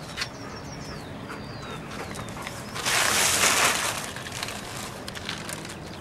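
Birds chirping with several short, high, falling calls, then a rushing hiss that swells and fades over about a second and a half near the middle.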